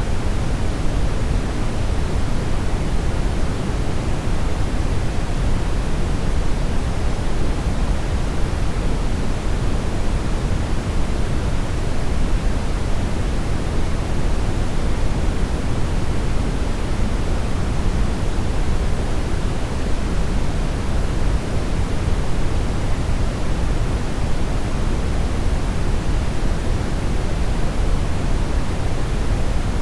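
Steady synthetic brown noise: an even, unchanging rumbling hiss, strongest in the bass and falling away toward the treble.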